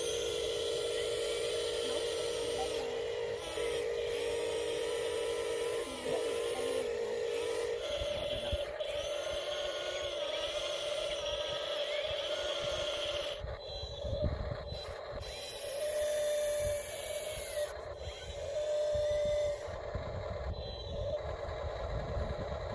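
Small electric motors of radio-controlled construction models whining steadily. The pitch steps up about eight seconds in. The later part is rougher and scraping, with two short higher whines.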